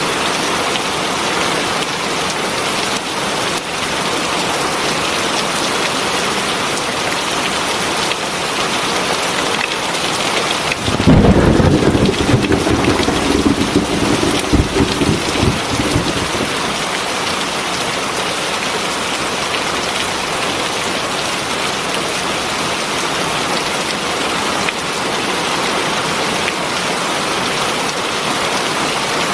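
Heavy rain falling steadily. About a third of the way in, a loud clap of thunder breaks in and rumbles on for about five seconds before fading back under the rain.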